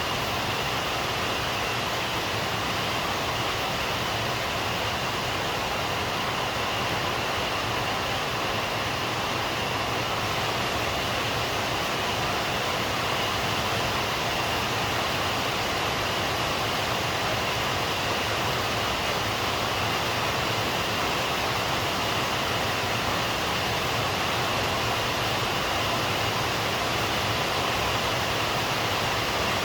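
Steady rain, an even hiss that holds at one level without breaks or thunder.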